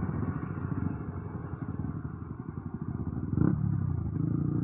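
Motorcycle engine running at low speed with a dense, steady low pulsing, and a brief louder burst about three and a half seconds in.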